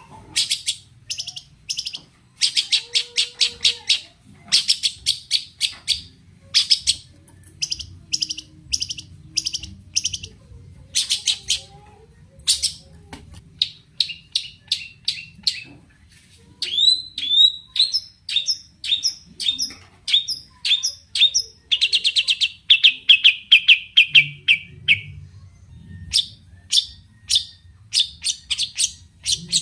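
Long-tailed shrike (cendet) singing: bursts of rapid, harsh chattering notes and quick chip series, with a fast trill that falls in pitch a little past the middle.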